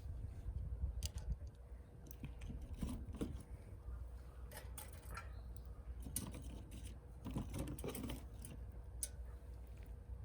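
Wood fire burning in a homemade wood gas stove, crackling with irregular sharp snaps and pops, some coming in small clusters.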